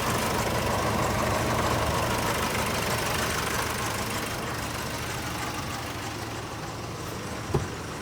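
Nissan Navara pickup's engine idling steadily with the A/C running, slowly getting fainter. There is a short knock near the end.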